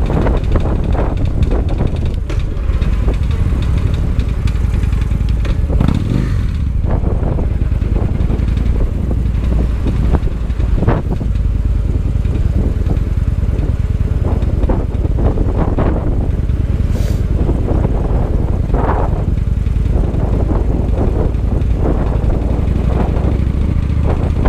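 Victory Highball's V-twin engine running steadily under way on the road. The bike has an odd mechanical noise that the rider thinks is the valves and cam chain needing adjustment.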